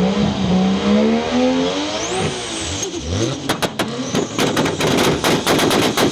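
A turbocharged car engine revved through its exhaust: the pitch climbs, then falls away, and from about three and a half seconds a rapid run of sharp exhaust pops and crackles follows.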